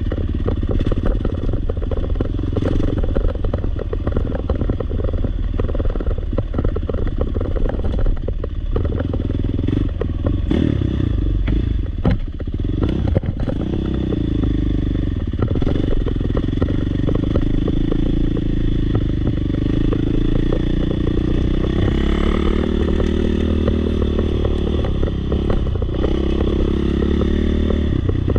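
Four-stroke single-cylinder dirt bike engine running under way, its pitch dropping and rising with the throttle about ten seconds in, then climbing slowly, with clatter and scraping from the bike over the track.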